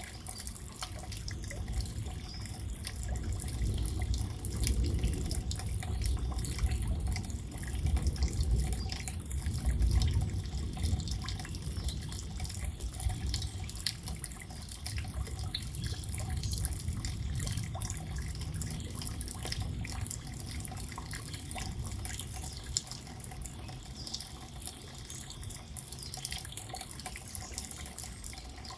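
Rain falling steadily, with many small drips and patters, over a low rumble that swells and is loudest in the first ten seconds.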